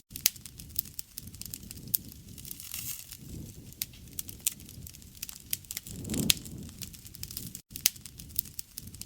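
Wood fire crackling, with sharp pops at irregular intervals over a steady low rumble of burning. A swell of flame noise comes about six seconds in. The sound drops out for an instant a little before the end.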